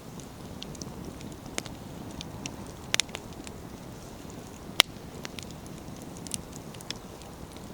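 Outdoor wood fire burning with a steady low rumble and hiss. Scattered sharp pops and crackles come from the firewood splitting in the heat, a quick double pop about 3 s in and the loudest single pop about 5 s in.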